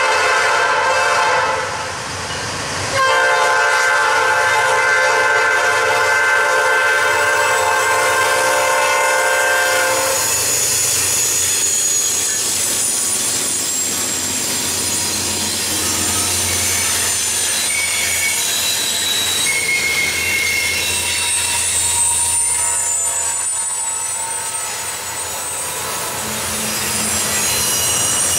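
Diesel freight locomotive's multi-chime air horn sounding for a grade crossing: a long blast that ends about a second and a half in, a short break, then another long blast until about ten seconds in. After that the locomotives pass and double-stack intermodal well cars roll by, with steady wheel-on-rail noise and thin, high wheel squeals.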